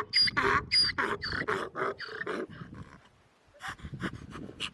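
An animal calling rapidly, about three calls a second, fading away about halfway through; a few short clicks or knocks follow near the end.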